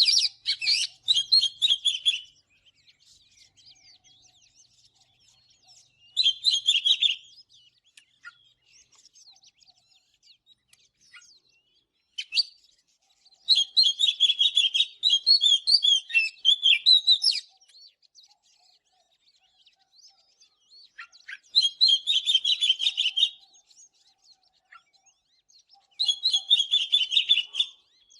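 Oriental magpie-robin singing: five loud bursts of rapid, varied whistled and chattering notes, each lasting one to four seconds, with pauses of a few seconds between them that hold only faint notes.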